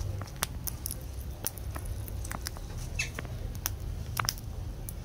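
Lovebirds chirping, a scatter of short sharp chirps and clicks over a low steady hum.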